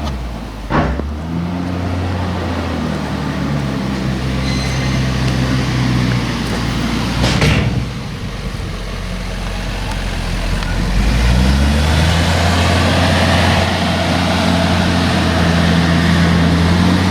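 Heavy diesel engine of farm machinery running under load, dropping back and then rising in revs about two-thirds of the way through. A sharp knock comes about a second in, and a louder thud about halfway.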